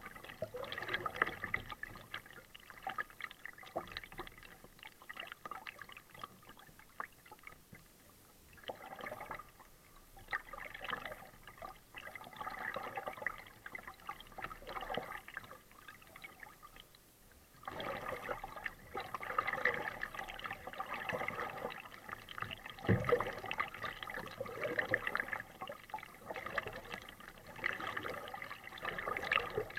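Kayak paddling: water splashing and dripping from the paddle blades in an irregular rhythm, easing off for a few seconds at a time and picking up again about two-thirds of the way through. A single low knock stands out near the end.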